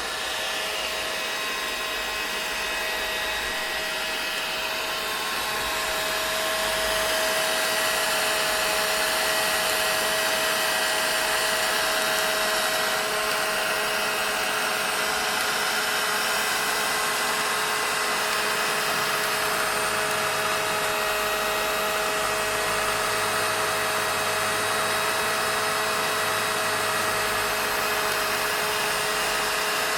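Vacuum cleaner running continuously: a steady motor whine over a broad hiss of rushing air. It grows a little louder over the first several seconds, then holds steady.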